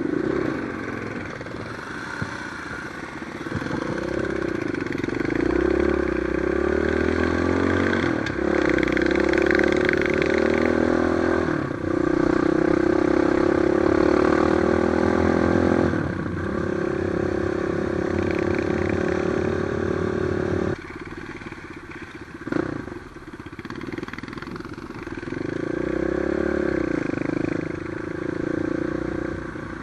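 Trail motorcycle engine under way, its note rising and falling as the throttle is opened and eased, with several abrupt changes in pitch and a sudden drop off the throttle about 21 seconds in.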